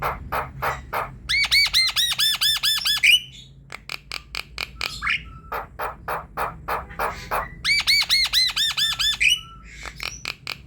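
Javan myna singing: a steady run of short harsh notes, about three or four a second, broken twice by a loud, quick run of arched whistled notes lasting about a second and a half each.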